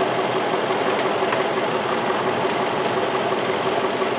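2003 Infiniti M45's V8 engine idling steadily. The engine has a random-cylinder misfire code (P0300) and a complaint of rough idle and shaking.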